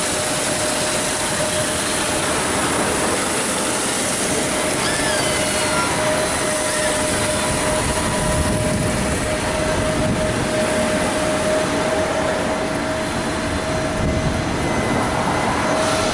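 Automatic car wash machinery running: a loud, steady rush with a constant hum beneath it.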